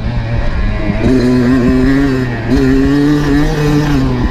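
Dirt bike engine running under throttle, its pitch stepping up about a second in, dropping briefly near the middle and then climbing again.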